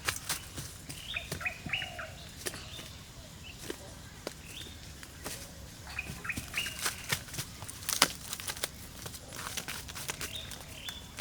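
Birds calling with short high whistled notes that drop in pitch, in several brief groups, over scattered sharp clicks and knocks; one knock near the end of the second third is the loudest.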